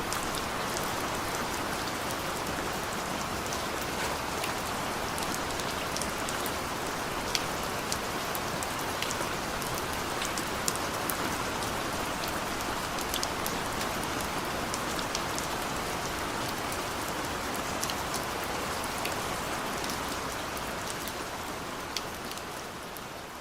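Steady rain falling, a dense even hiss with many sharp individual drop hits ticking through it. It fades out over the last few seconds.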